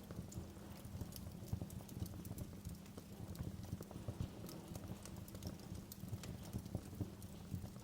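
Wood fire crackling in a fireplace: irregular sharp pops and snaps over a low, steady bed of sound.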